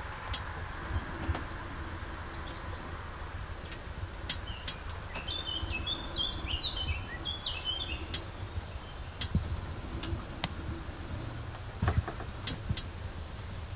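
A songbird sings a short burst of high twittering chirps around the middle, over a steady low rumble, with scattered sharp clicks throughout.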